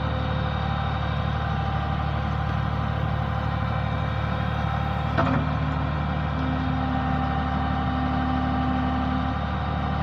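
JCB digger's diesel engine running steadily, with a single knock about five seconds in.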